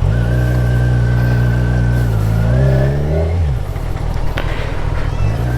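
Kawasaki Ninja 1000SX inline-four engine running steadily, then rising in pitch for about a second before the note drops away.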